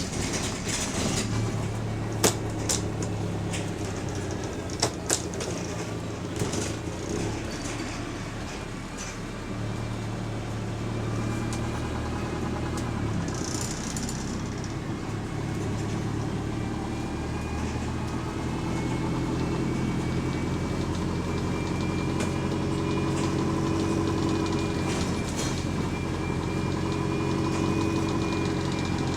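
Bus engine running, heard from inside the bus: a steady low drone with a few sharp rattles and clicks in the first few seconds, and a whine that comes in about halfway through.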